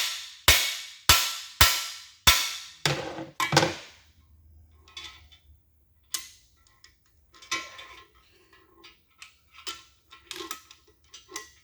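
Hammer blows on a cam bearing installer, driving a cam bearing into the bore of a Chevy 283 block. There are five ringing metal strikes about half a second apart, then three duller hits, then light clicks and knocks as the tool is handled. The bearing is driven slightly too far and has to be knocked back.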